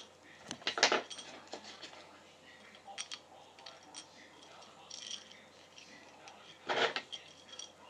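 Small metal screws and a T-nut clicking and rattling as they are handled and fitted, with two brief louder scrapes, one about a second in and one near the end.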